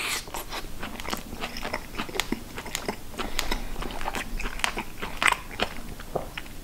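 A bite taken from a grilled chicken shashlik skewer, then chewing with many small, irregular clicks.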